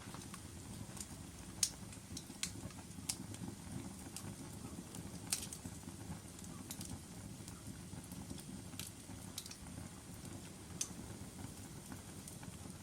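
Wood fire burning in a fireplace: a steady low rumble of flames with irregular sharp crackles and pops from the logs, the loudest about a second and a half in and again about five seconds in.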